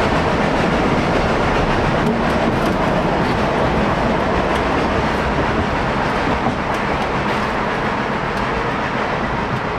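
Narrow-gauge train running along the track, a steady rumble of wheels on rails.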